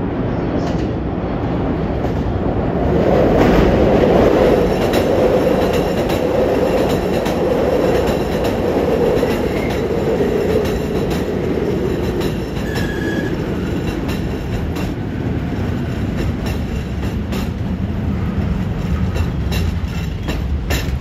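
E233-1000 series electric commuter train pulling into a platform and braking, its wheels clicking over rail joints. The rolling rumble is loudest a few seconds in and eases as the train slows, with two brief brake squeals near the middle. The uploader finds the brake noise odd.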